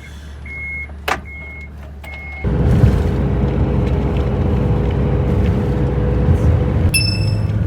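A vehicle's reversing beeper sounds in evenly spaced beeps, about one every 0.8 seconds. About two and a half seconds in, it gives way abruptly to a much louder, steady motor-vehicle engine rumble with a low steady hum.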